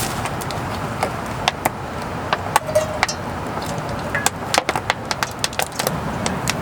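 Rain falling: a steady rush of water with raindrops tapping sharply and irregularly on a nearby surface, the taps coming thicker in the second half.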